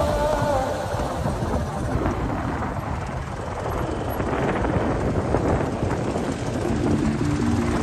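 Motor vehicle engine running with a steady rumble.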